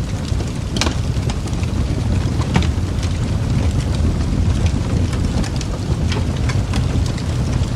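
Wood fire burning in a fireplace: a steady low roar with scattered sharp crackles and pops, two of them louder, about a second and two and a half seconds in.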